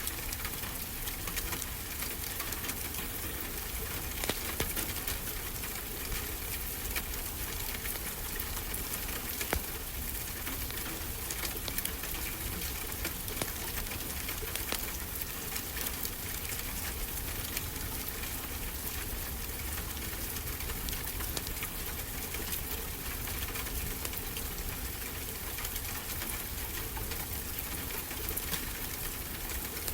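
Wood fire crackling in a fireplace, with frequent small sharp pops over a steady wash of noise.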